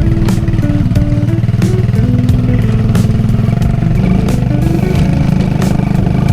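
Motorcycle engine running steadily under a rider and passenger on a habal-habal taxi ride, with background music playing over it.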